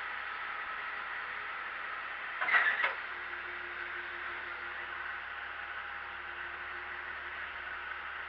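Steady hissing background noise with faint steady tones, broken by one brief loud clatter about two and a half seconds in.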